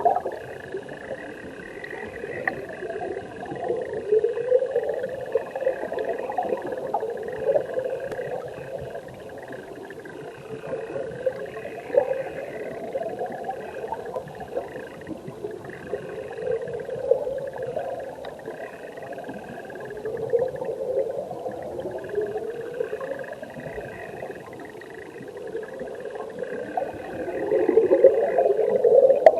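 Stream water heard from underwater by a submerged camera: continuous bubbling and gurgling turbulence with irregular rising sweeps, swelling louder near the end.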